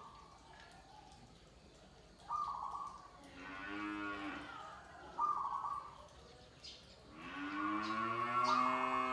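A cow mooing twice, the second moo longer and louder, lasting about two and a half seconds. Between the moos come short bursts of zebra dove (perkutut) cooing.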